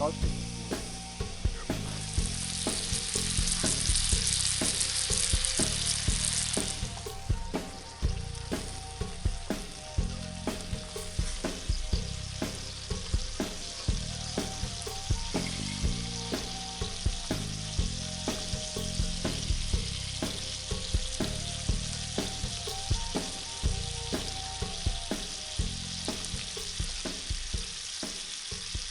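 Campfire crackling and popping, with food warming in a pan over it and sizzling. A louder hiss comes from about two to seven seconds in.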